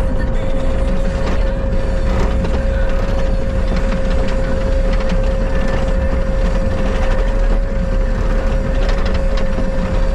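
Bobcat skid steer running under work, a steady rumble with an unchanging high whine over it and scattered cracks and knocks.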